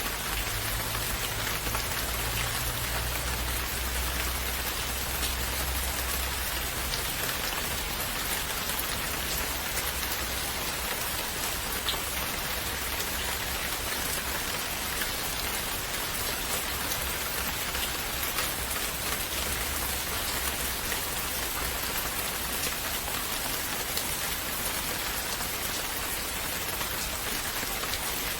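Steady rain falling on surfaces, a dense even hiss of drops with faint individual drop ticks, and a low rumble in the first few seconds.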